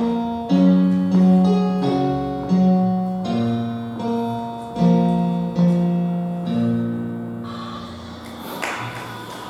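Piano playing a slow series of chords, each struck and held, with the last one fading away over the final seconds. A rustling noise rises just before the end.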